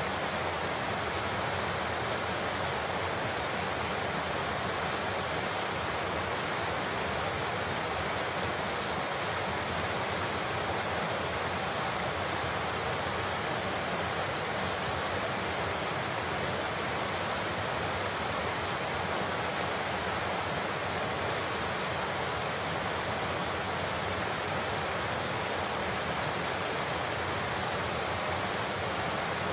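Large waterfall: a steady, even rush of falling water with no change.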